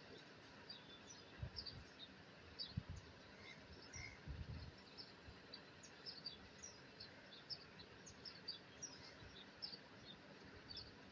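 Small birds chirping: many short, high chirps in quick succession over a faint steady background hiss. There are a few brief low bumps in the first half.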